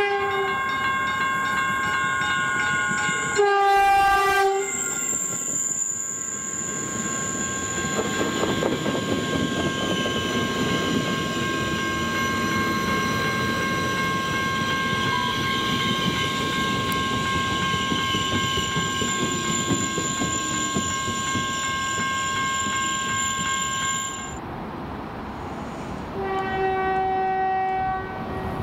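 A train passing a grade crossing: crossing bells ringing steadily until they stop suddenly about 24 seconds in, with a short train horn blast about 3.5 seconds in and another near the end, and the train's rumble and wheel clatter in between.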